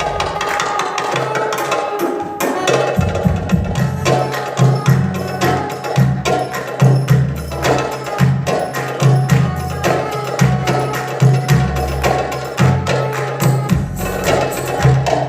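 Tabla played in quick, dense strokes over a backing track, with deep, ringing bass drum tones under the sharper higher strokes.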